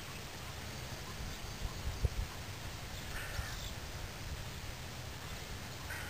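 A short bird call about three seconds in and another brief one near the end, over a low steady rumble, with a single thump about two seconds in.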